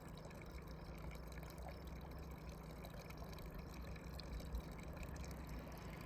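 Steady running water, with a faint low hum beneath it.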